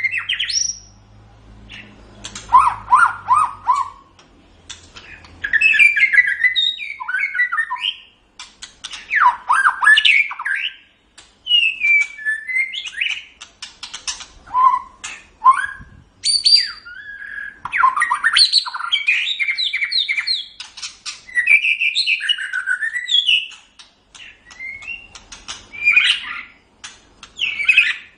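White-rumped shama (murai batu) singing: varied, loud whistled phrases mixed with rapid chattering notes and sweeps, delivered in bouts of a second or two with short pauses between them.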